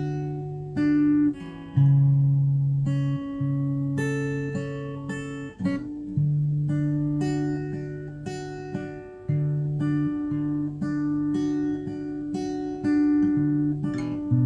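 Background music on acoustic guitar: plucked notes and chords ringing and changing every second or so.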